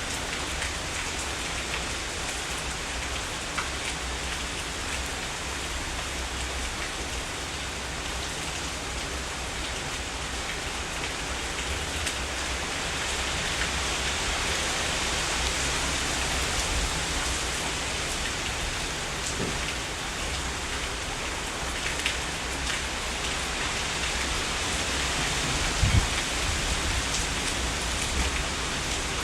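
Heavy rain falling steadily, with a few louder single drops. It swells slightly in the second half, and a short low thump comes near the end.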